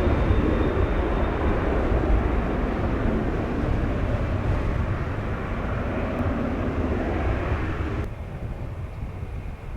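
Jet airliner engine roar fading as the aircraft moves away, with wind rumbling on the microphone. The roar drops off abruptly about eight seconds in, leaving mostly wind rumble.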